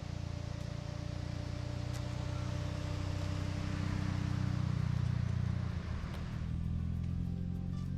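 Car on the move: a steady low engine and road drone with tyre hiss, which swells toward the middle and drops away about six seconds in.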